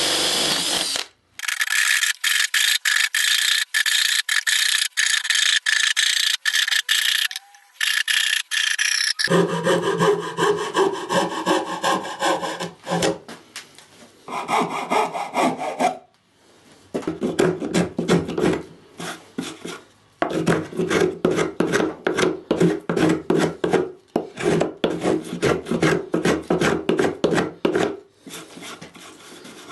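A power tool runs for about the first second. Then a hand tool works wood in rapid back-and-forth strokes: thin, high scraping strokes at first, then heavier strokes with more body, in runs broken by short pauses.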